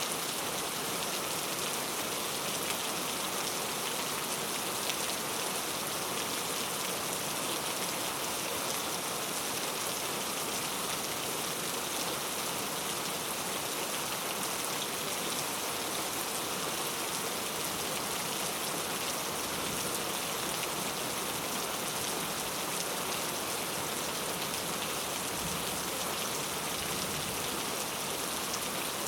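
Steady rain falling: an even hiss of many drops, unchanging throughout.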